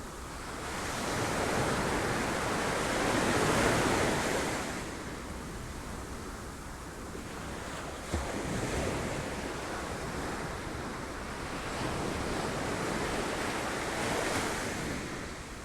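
Ocean waves breaking on rocks, surging up and ebbing away twice, with a brief sharp knock about eight seconds in.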